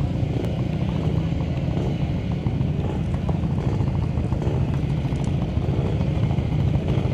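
Studded ice-racing motorcycles' engines running steadily, with a fast pulsing exhaust note.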